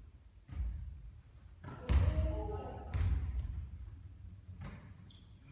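A basketball bouncing and thudding on a court: three heavy thuds in the first three seconds, the second the loudest and sharpest, then a fainter one near the end. Short high squeaks come between them.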